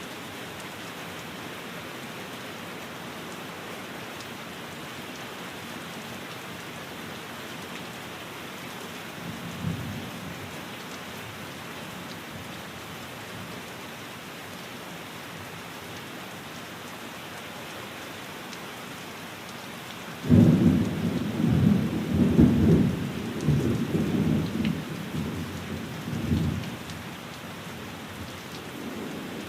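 Steady rain pattering on a window, with a brief low rumble of distant thunder about ten seconds in. About two-thirds of the way through, a loud thunderclap breaks in suddenly and rolls on in waves for several seconds before fading back under the rain.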